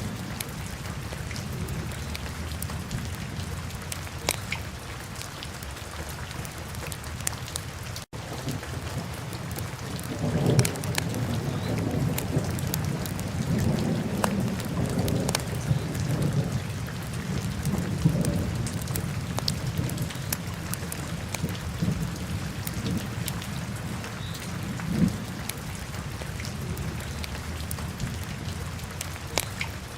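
Wood fire crackling in a fireplace: scattered sharp pops over a steady low rumble, which swells for several seconds in the middle. The sound cuts out for an instant about eight seconds in.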